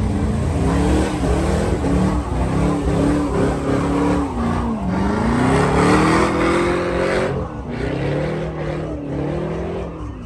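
Car engine revved up and down repeatedly during a burnout, its pitch climbing and falling over and over, with tyre squeal from the spinning wheels.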